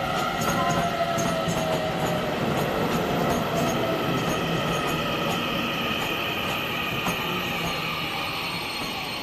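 Taiwan Railway train running along the station platform: a steady rumble of steel wheels on rail with a faint wheel squeal and light clicks, slowly fading toward the end.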